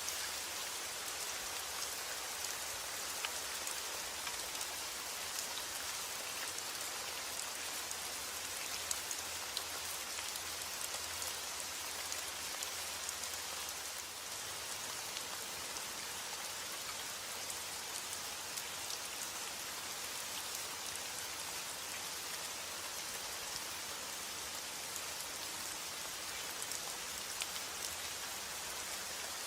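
Steady rain falling: an even hiss of rain with scattered faint ticks of single drops.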